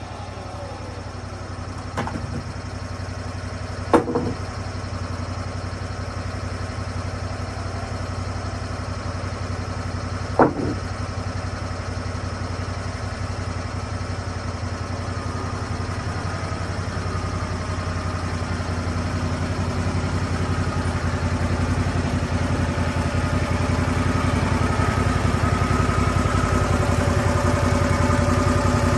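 Engine of a Lucas Mill 10-30 swing-blade portable sawmill running steadily, growing louder over the second half. Three sharp knocks come about two, four and ten seconds in.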